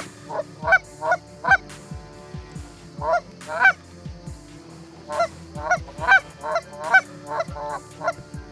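Canada geese honking: an irregular string of short, pitched honks, some in quick pairs.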